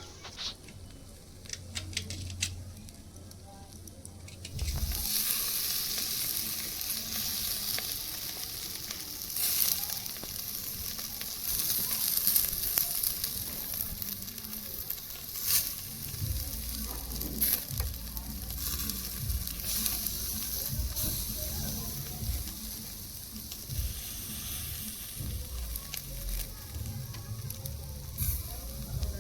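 Food sizzling in hot oil in a pan. The sizzle starts suddenly about five seconds in and carries on steadily, with clicks and scrapes of a spoon stirring.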